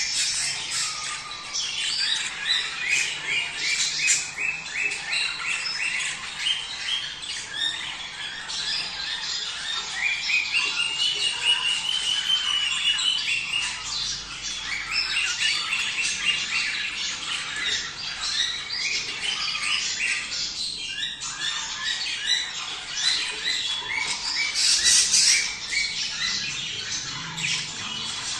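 Budgerigars chattering and warbling: a constant stream of rapid, overlapping chirps with short rising and falling trills.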